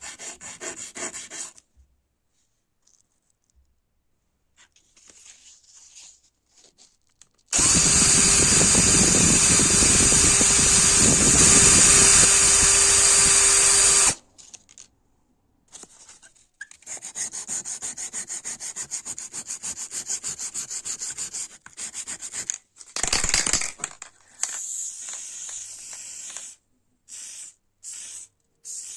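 A small power tool running in bursts. One long, loud run of about six seconds starts some seven seconds in, and shorter, quieter runs and scraping follow later.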